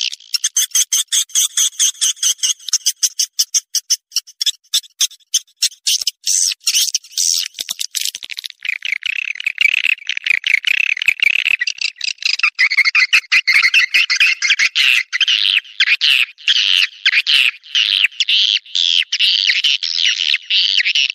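Swiftlets' mating chatter: rapid clicking chirps, about five a second, then from about 8 seconds in a denser, buzzing twitter of overlapping calls.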